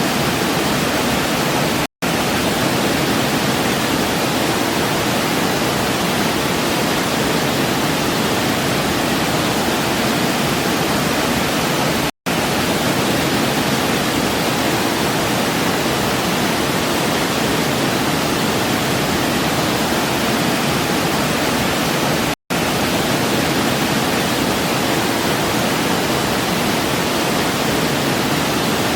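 Waterfall rushing in a steady, even roar of water, cut by three very brief gaps of silence about ten seconds apart.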